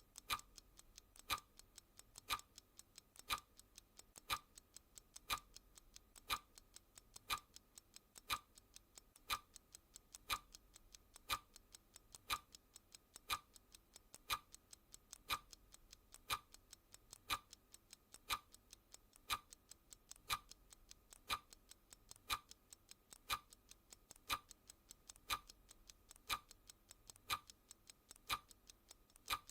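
Clock ticking sound effect: one sharp tick each second, with fainter ticks of a second hand in between, steady and even.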